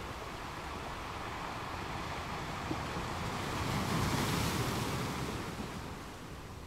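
Sea waves washing, with wind on the microphone; a louder rush swells about halfway through and fades near the end.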